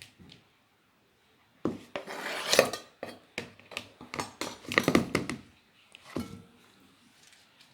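Knife cutting a tomato on a cutting board: a scraping stroke, then a run of irregular taps and knocks that stops about six and a half seconds in.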